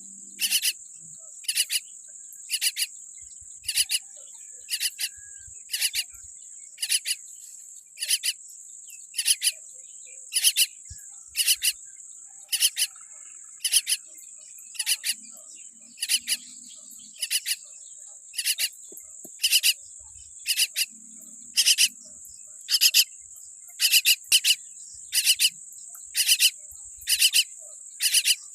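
Myna chick giving short, harsh begging calls over and over, about once or twice a second and sometimes in pairs, over a steady high insect drone.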